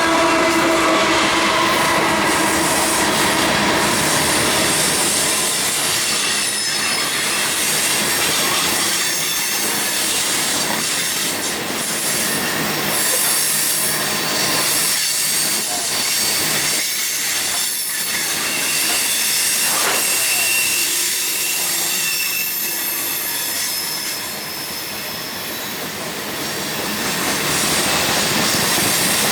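Railroad cars rolling past at close range, steel wheels squealing and screeching against the rails over a steady rumble and clatter.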